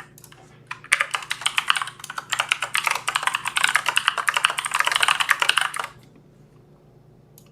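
Fast typing on a computer keyboard: a few scattered key clicks, then a rapid run of keystrokes for about five seconds that stops about six seconds in.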